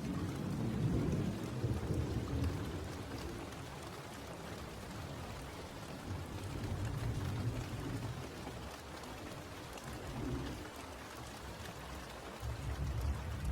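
Steady rain falling, with low rolling thunder rumbles that swell a few times and fade.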